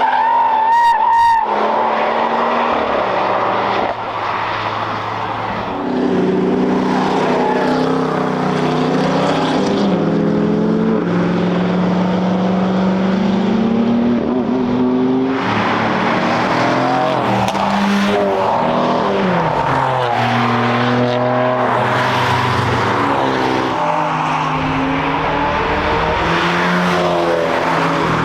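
Cars passing at speed, one after another, their engines revving up and falling away through gear changes, with a short run of sharp pops about a second in.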